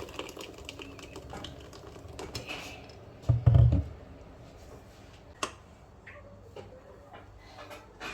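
Rapid light clicking and tapping, with a dull low thump about three and a half seconds in and a single sharp click a couple of seconds later.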